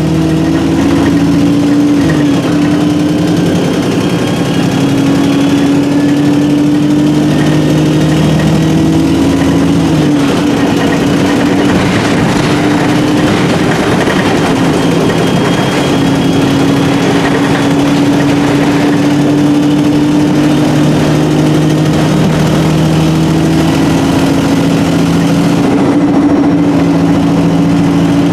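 Alexander Dennis Enviro300 single-deck bus with a Voith four-speed automatic gearbox, under way. A steady engine drone comes with a high gearbox whine, and the engine note steps down at gear changes about two and ten seconds in. The exhaust is blown.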